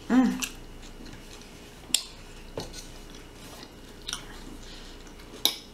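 Close-up chewing and mouth sounds of someone eating, with a few sharp clicks of a metal fork against a plastic plate. A brief rising-and-falling vocal sound right at the start.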